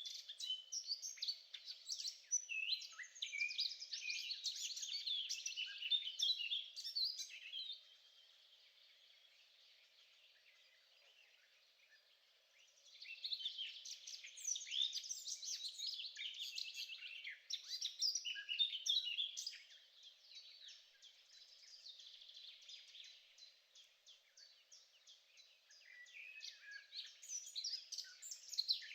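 Birds chirping and singing in a busy, overlapping chorus of quick high notes. They fall almost silent for a few seconds about eight seconds in, then start up again. A faint steady hum runs underneath.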